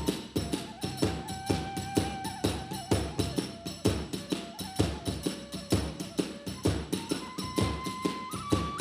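Hiroshima kagura music: a drum struck at a fast, even beat with small hand cymbals ringing over it, and a transverse bamboo flute playing a melody that steps between held notes.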